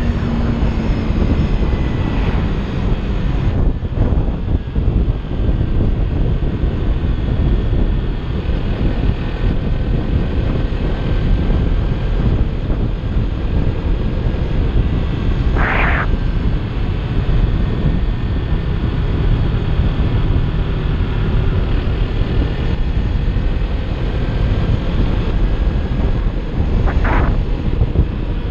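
Kawasaki Ninja 300 parallel-twin engine running at a steady cruise, heavy wind rush over the microphone. Two brief sharper noises cut through, past the middle and near the end.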